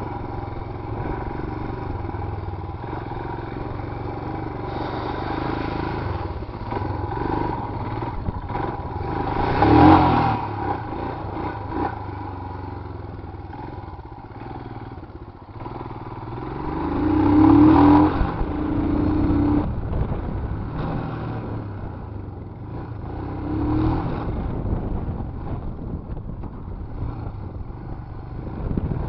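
Royal Enfield Himalayan motorcycle engine being ridden over an off-road track, with the revs rising and falling. It opens up loudest about ten seconds in, again around eighteen seconds, and briefly near twenty-four seconds.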